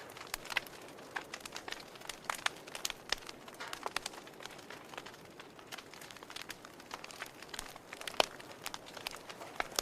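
Wood fire crackling in a fireplace: irregular sharp pops and snaps over a steady soft hiss, with one louder pop about eight seconds in.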